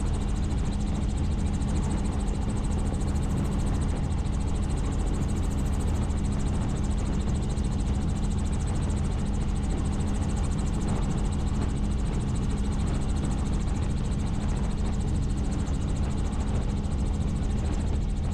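Helicopter in flight: steady engine and rotor noise with a constant low hum and no change throughout.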